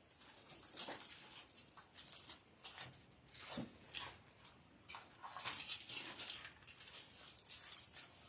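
Faint, irregular paper rustling, like the thin pages of a Bible being leafed through to find a passage.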